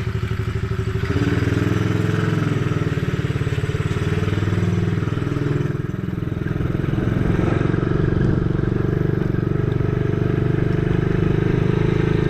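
Coolster mini dirt bike's small gasoline engine running on a ride. It picks up about a second in, eases off briefly near six seconds, then pulls again.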